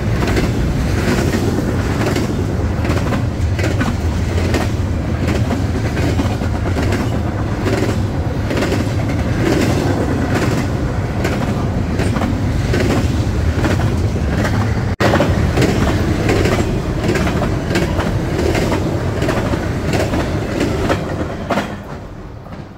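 Train rolling past, its wheels clacking over the rail joints about twice a second over a steady low rumble. The sound fades away near the end.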